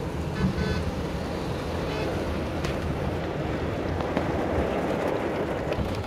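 Heavy rain pouring steadily: a continuous rushing noise with a deep rumble beneath it. A brief high-pitched tone sounds about half a second in.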